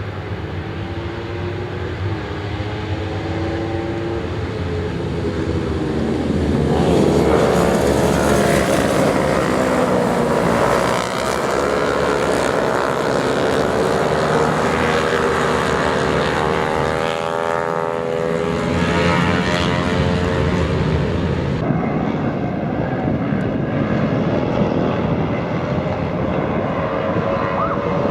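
Racing motorcycle engines at high revs, their pitch sliding up and down as the bikes accelerate, shift and pass. The sound grows louder about seven seconds in.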